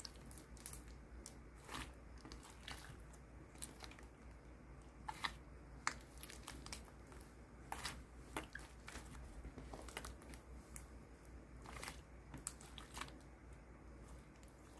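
Faint, irregular clicks and crunches, scattered unevenly, over a low steady hum.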